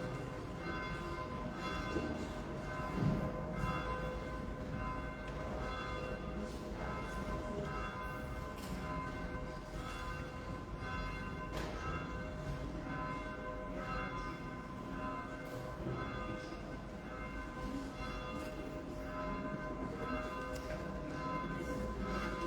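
Church bells ringing, a steady succession of strokes at roughly one a second, each leaving ringing tones that hang on under the next.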